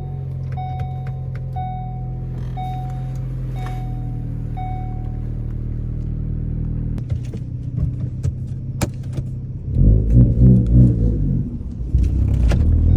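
Ford Focus ST's turbocharged 2.0-litre four-cylinder running at idle through an AWE axle-back exhaust, with a dashboard warning chime sounding about once a second for the first five seconds. A sharp click comes near nine seconds, then the engine revs up loudly as the car pulls away, dipping briefly before climbing again.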